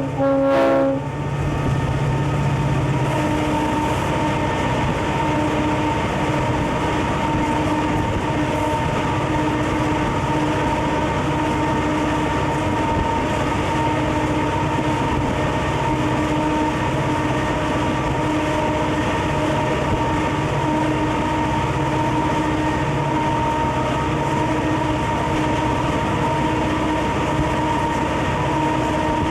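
Conrail diesel locomotive's horn sounding, cutting off about a second in, then the steady running of the train: the diesel engine's constant drone with wheels on rail.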